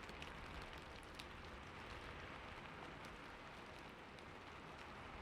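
Faint, steady rain ambience, a soft hiss with scattered individual drops pattering.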